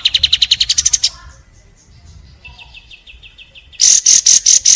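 Kapas tembak singing: a fast, loud run of rapid notes that climbs in pitch and breaks off about a second in, then a softer, lower trill. Near the end comes a loud burst of about five sharp, very high notes.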